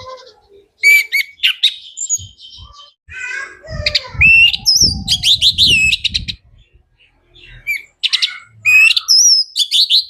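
Orange-headed thrush singing loudly in full song: phrases of clear whistled notes, rapid note runs and slurred glides, repeated with short gaps. Low muffled thuds sound under the song in the middle.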